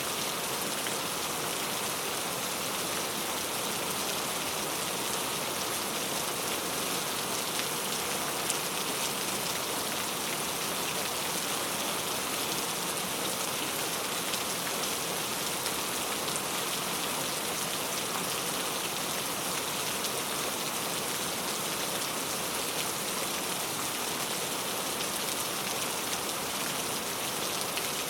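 Heavy rain falling steadily on mango tree leaves: a dense, even hiss with fine drop patter.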